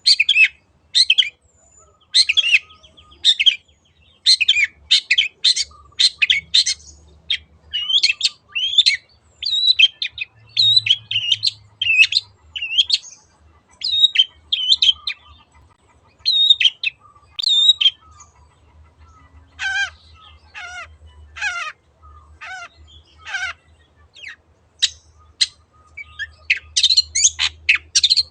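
Long-tailed shrike (cendet) singing a quick series of short, sharp high notes, with a run of lower, downward-sliding notes about twenty seconds in.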